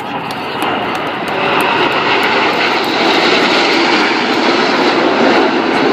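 Aircraft engine noise swelling over the first couple of seconds as an airplane approaches, then holding loud and steady.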